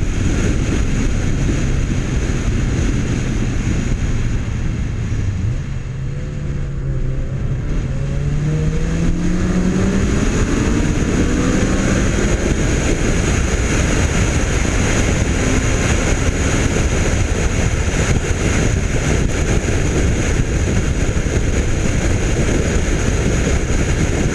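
Honda Civic Si 2.0-litre i-VTEC four-cylinder engine under hard acceleration, rising in pitch for several seconds from about six seconds in, pulling through its VTEC high-rpm range. Heavy wind rush over the hood-mounted microphone runs throughout.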